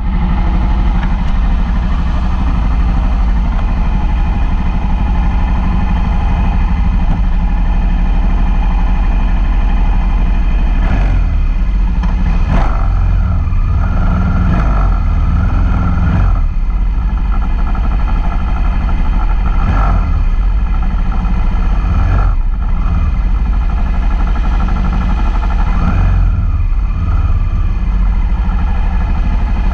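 Suzuki SV650's V-twin engine idling close by, with several short throttle blips as the bike creeps forward in a line of motorcycles.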